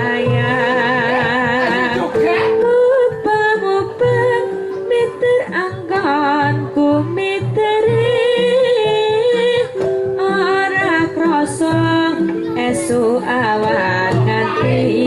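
A child sinden singing a wavering, vibrato-laden Javanese vocal line with a karawitan gamelan ensemble, over sustained ringing notes and a regular low beat.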